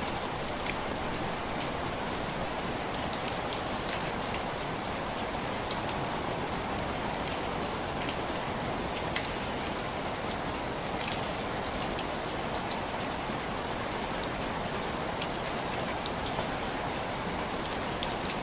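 Steady rain falling on window glass: an even hiss of rainfall with many scattered, sharp taps of single drops hitting the pane.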